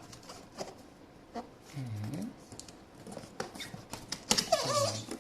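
Scattered taps, scrapes and rustles of hands working open a securely taped cardboard box without a knife. A brief hum-like vocal sound comes about two seconds in, and a short mumble near the end.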